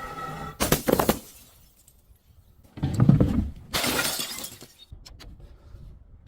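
Glass bottle breaking: a couple of sharp cracks about half a second in, then a loud crash with a heavy thud about three seconds in, followed by a burst of shattering glass.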